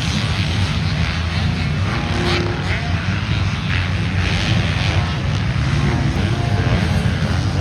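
Motocross dirt bike engines running hard at race speed: a loud, continuous drone with revs rising and falling as the bikes work through the track.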